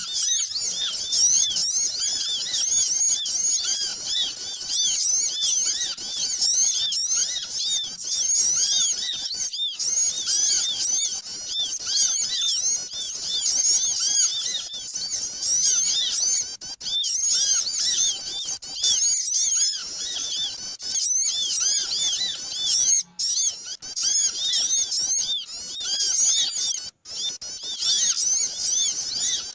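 Dense, continuous chatter of many small birds calling at once, short high chirps overlapping without a break, with a couple of brief gaps in the later part. It is a bird-lure (pikat) recording of noisy small-bird calls, played to draw small birds in.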